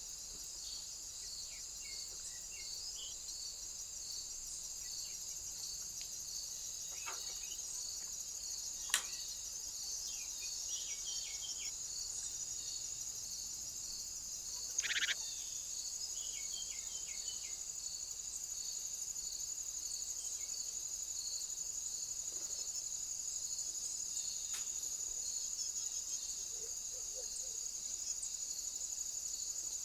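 Steady high-pitched insect chorus with an evenly pulsing trill. A sharp click comes about nine seconds in, and a brief louder call about halfway through.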